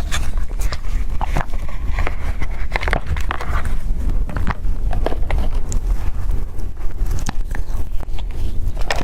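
A person eating close to the microphone: scattered wet bites, mouth clicks and chewing sounds over a steady low hum.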